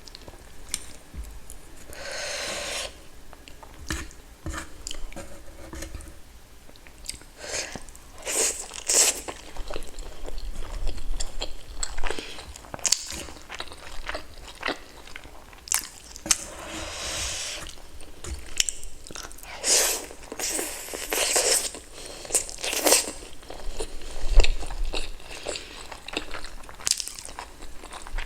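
Close-miked eating of spicy pork dumplings (momo) and pork ribs: biting and chewing with irregular wet clicks and smacks, and a few longer stretches of noisy chewing.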